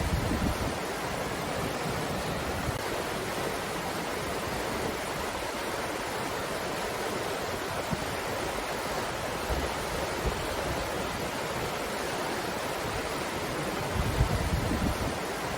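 Steady breeze, an even rushing hiss, with low rumbling gusts buffeting the microphone at the start and again near the end.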